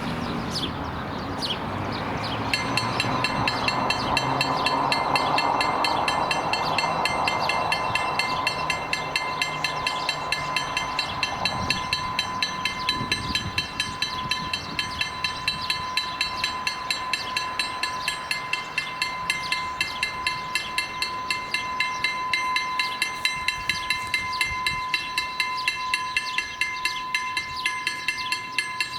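Electronic level-crossing bell (KLD-4013 acoustic signal) starts ringing about two seconds in and keeps striking rapidly, a few strokes a second, with a steady high tone under it. A train, a diesel railcar, runs by, its rumble swelling in the first several seconds and then fading.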